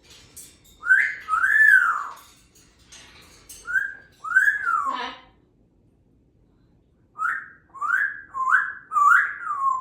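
African grey parrot whistling: a few rising-and-falling whistled notes, a pause of about two seconds, then a quick run of about five short swooping whistles near the end.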